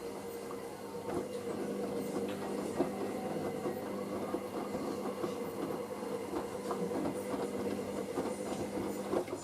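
Hoover SIX AAA160 washing machine's drum motor turning the drum on a wash cycle: a steady hum with a busy clatter of small clicks from the tumbling load, stopping suddenly near the end as the drum pauses.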